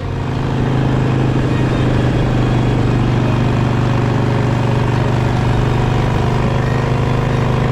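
Harley-Davidson Sportster's V-twin engine running at a steady speed, an even drone with no revving.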